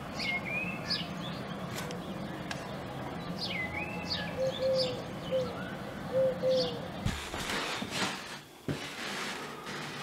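Small birds chirping in short, sharp down-sweeping calls, with a pigeon cooing several low notes partway through.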